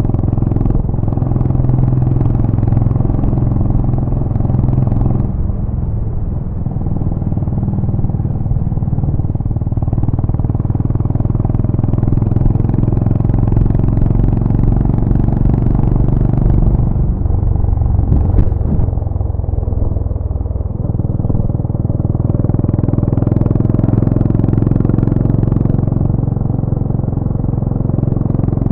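Exhaust note of a Honda GB350's air-cooled single-cylinder engine running steadily. Its tone changes about five seconds in and again between about 17 and 21 seconds.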